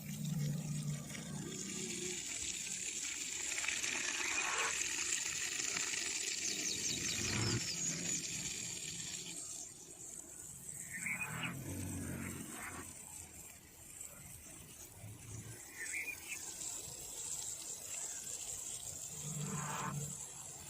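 Nature soundscape of birds and water. Short upward-sweeping bird chirps come every few seconds over a hiss of water, which is strongest for the first several seconds and drops away about ten seconds in. Short low calls sound underneath.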